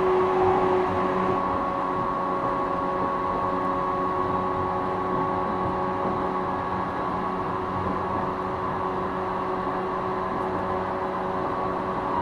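JR 455-series EMU motor car running at steady speed on the rails: the MT54 traction motors and gearing give a steady whine of several held tones, over the rumble of wheels on track.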